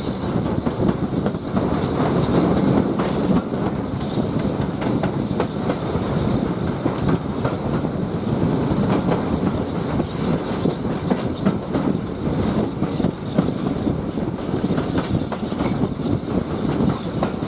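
Railway carriage running along the line, heard from on board: a steady rumble with wheels clicking over the rail joints.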